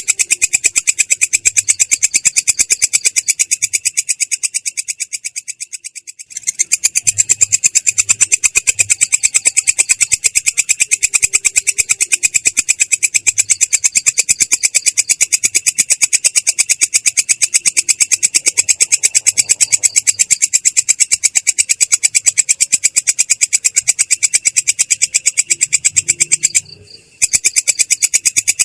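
Belalang kecek bird singing its rolling song: a long, rapid, high-pitched rattling trill of many notes a second. It fades out about four seconds in, resumes a couple of seconds later, and breaks off briefly near the end.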